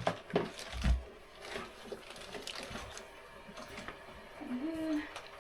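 Scattered clicks and knocks of equipment being handled, with a dull thump about a second in and a brief low voiced sound near the end.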